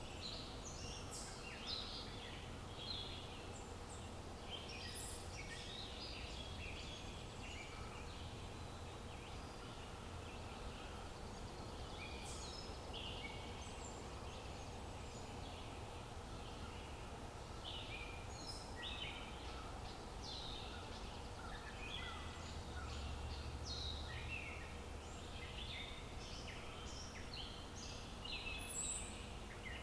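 Outdoor nature ambience of several small birds chirping and singing in short, overlapping calls throughout, over a steady low background rumble.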